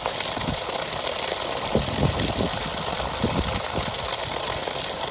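An engine running steadily, with a constant hiss and irregular low knocks and rumbles.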